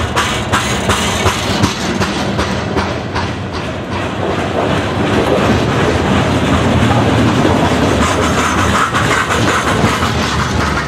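Freight cars, boxcars and lumber-loaded centerbeam flatcars, rolling past on jointed rail: a steady wheel rumble with clickety-clack of wheels over rail joints, the clicks sharpest in the first couple of seconds.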